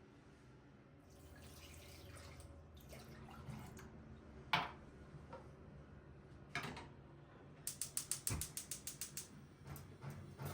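Kitchen work sounds: two single sharp knocks, then a quick run of clicking, about nine a second, for a second and a half near the end.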